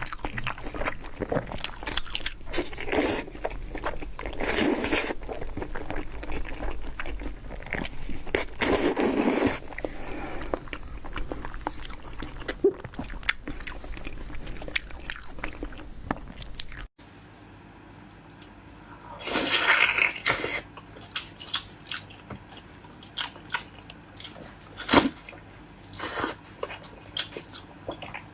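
Close-miked eating: biting and chewing food, a busy run of short mouth clicks and smacks. The background hum drops out abruptly at an edit about 17 seconds in, after which the chewing sounds come more sparsely.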